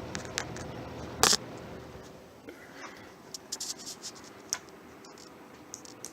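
Box fan motor running with a faint steady whine under a rush of air. A loud click comes about a second in, and the air noise falls away soon after. Scattered light clicks and ticks follow.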